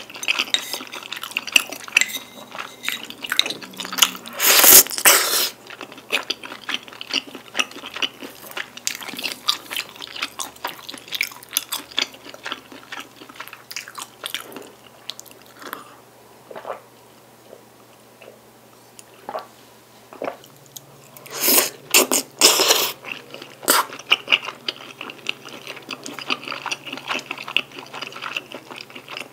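Close-miked mukbang chewing and biting of jjajang tteokbokki: chewy rice cakes, wide glass noodles and bacon in thick black-bean sauce. The mouth sounds grow louder about five seconds in and again around twenty-two seconds in, with a quieter stretch between.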